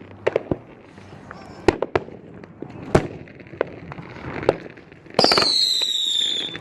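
500g consumer fireworks cake firing: scattered sharp pops and bangs. About five seconds in, a loud whistle begins, falling slightly in pitch, and carries on to the end.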